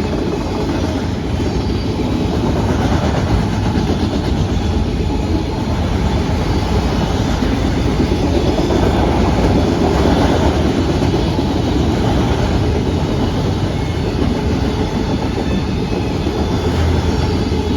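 Freight train passing close by: a steady, loud rumble of railcar wheels running on the rails.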